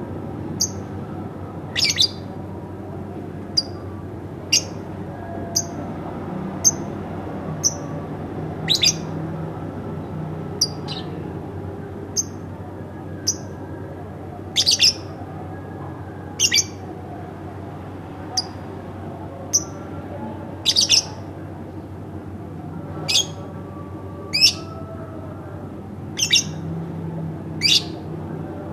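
Pet lovebird calling in short, sharp, high chirps about once a second, with louder, longer squawks every few seconds. A steady low hum runs underneath.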